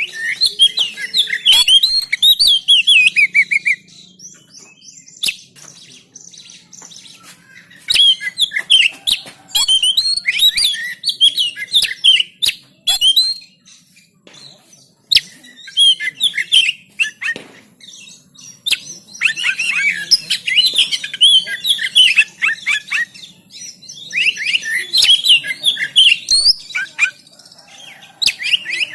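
Oriental magpie-robin singing an insistent, worked-up song: bursts of fast, varied, high chirps and whistles. There are about five phrases, each separated by a short pause.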